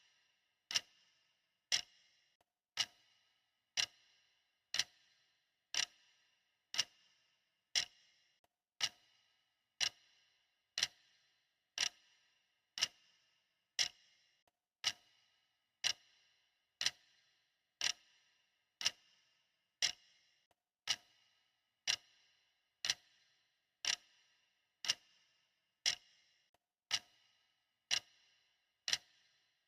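Clock ticking steadily, one sharp tick about every second, each with a short ringing tail.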